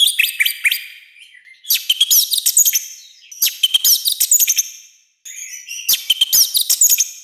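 Orange-headed thrush singing loudly in four rapid warbling phrases, each a quick tangle of high notes, with short pauses between.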